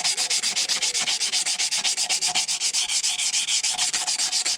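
Hand rubbing with 120-grit emery paper on the cast-iron mating face of a Ferguson TED cylinder head, in quick, even back-and-forth strokes of hissing scrape, cleaning off corrosion before a new head gasket goes on.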